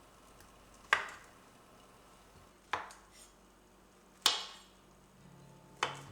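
Four sharp knocks of kitchen objects being handled, spaced about a second and a half apart, each ringing out briefly.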